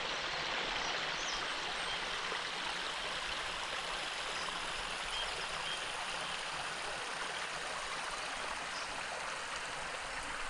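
Steady rushing of flowing water, an even hiss that holds level throughout.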